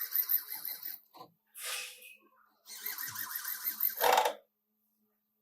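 Three short bursts of a rasping, fluttering tool sound, the last one the longest, then a sudden cut to silence about a second before the end.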